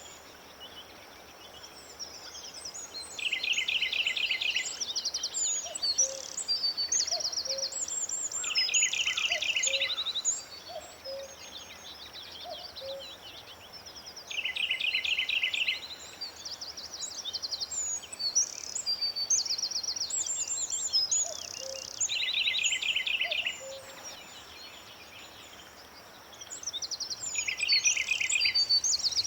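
Several songbirds singing together: one bird repeats a short, fast trill about every five or six seconds, among many higher chirps and whistles from other birds.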